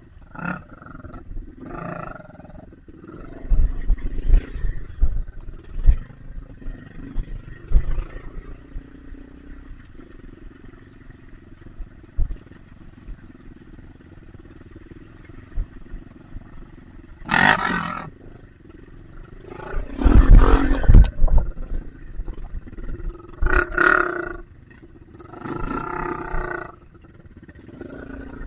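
Dirt bike engine running, with four loud revs in the second half and scattered thumps on the microphone in the first half.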